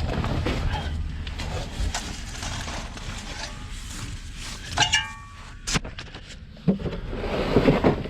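Scraping and rustling of someone moving in a crawl space, with a steady low hum that fades out about two seconds in. About five seconds in comes a short metallic clink that rings briefly, then a sharp click.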